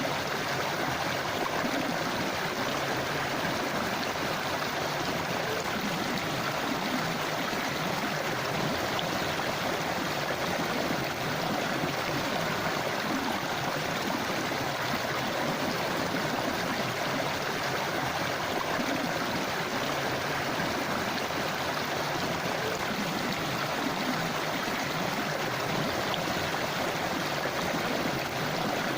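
Forest river or stream flowing over stones: a steady rushing and babbling of water.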